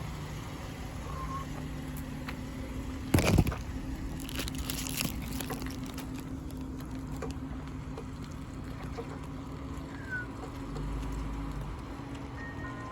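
A vehicle engine running steadily at low revs, with one loud thump about three seconds in. Near the end the ice cream truck's jingle melody starts up faintly.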